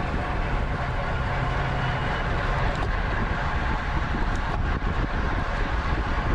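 Steady rush of wind and road noise on a racing cyclist's camera microphone while riding at speed.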